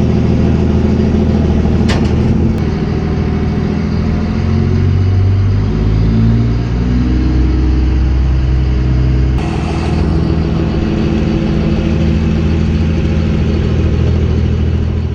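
An engine running at a loud, steady level, its pitch stepping up and down partway through as it is revved.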